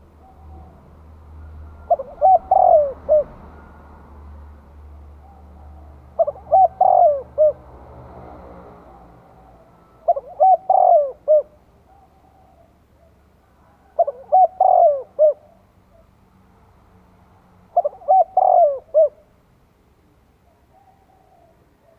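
Spotted dove cooing its advertising song: a short phrase of several notes, repeated five times about every four seconds.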